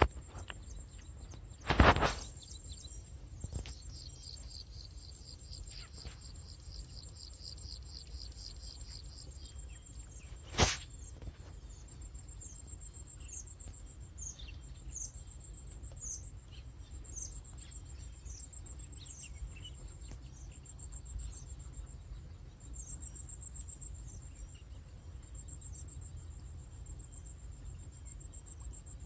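Outdoor insect and bird ambience: a steady high insect buzz with a trill lasting several seconds near the start and short falling bird chirps through the second half. Two sharp knocks stand out, the louder one about two seconds in and another about ten seconds in, over a low rumble.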